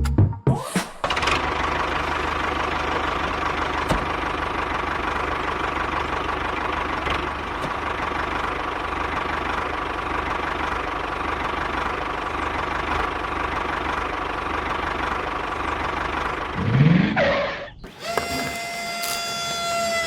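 An engine or motor running steadily for most of the stretch. Near the end there is a brief rising glide, then a cut to several held, horn-like tones.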